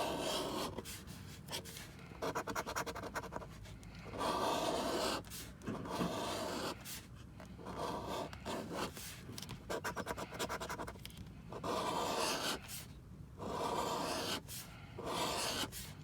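A scratch-off lottery ticket being scratched, its coating rubbed away in a series of short bursts with brief pauses between them.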